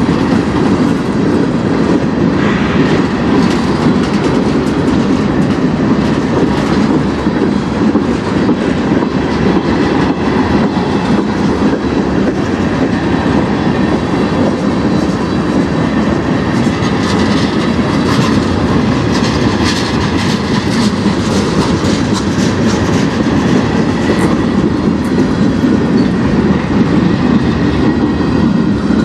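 Freight cars of a mixed manifest train rolling past close by: a loud, steady wheel-on-rail rumble with clicking as the wheels cross rail joints, and a faint high ring from the wheels.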